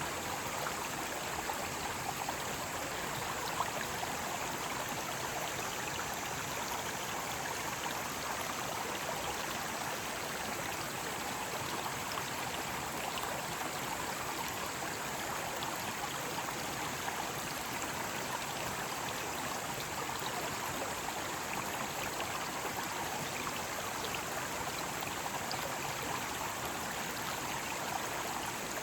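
Mountain stream rushing over rocks: a steady, even water noise with no break.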